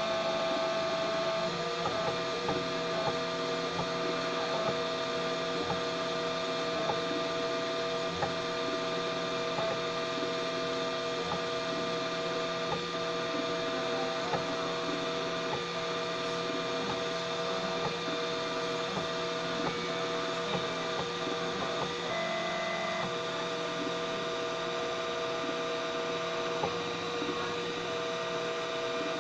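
3D printer running, its stepper motors whining at several steady pitches with faint irregular ticks. The tones briefly shift about three-quarters of the way in.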